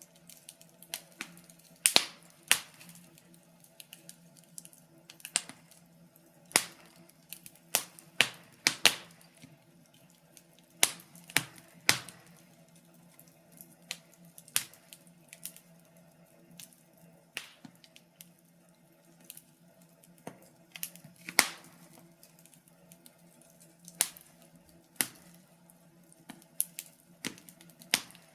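Wood fire crackling: irregular sharp pops and snaps, some loud and close together, over a faint steady low hum.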